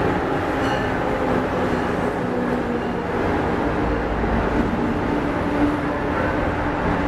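Amtrak Acela Express electric trainset running alongside the platform: a steady rush of wheels on rail and running gear with a low hum. A high, ringing ding repeats about once a second and fades out after about three seconds.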